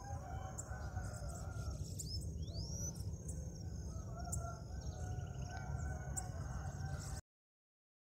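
Faint bird calls, short high chips and a clear rising whistle about two and a half seconds in, over a steady low rumble; the sound cuts off about seven seconds in.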